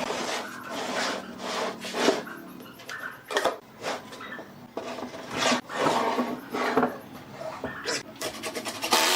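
Wood being scraped or rubbed by hand in uneven strokes, about one or two a second.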